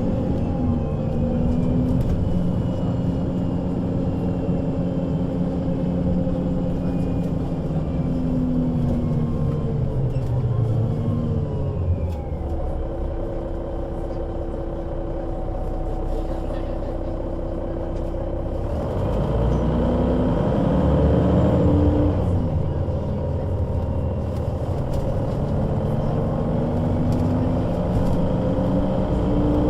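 A 2005 Solaris Urbino 12 III city bus's diesel engine and Voith automatic gearbox running in service, its pitch rising and falling through the gear changes. About twelve seconds in it settles to a steady lower note for around six seconds. It then pulls away again, louder and rising in pitch, drops back after a shift, and climbs once more.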